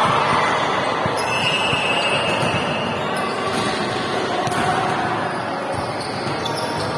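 Echoing sports-hall din of volleyball practice: a steady wash of noise with occasional sharp ball impacts, and music playing along.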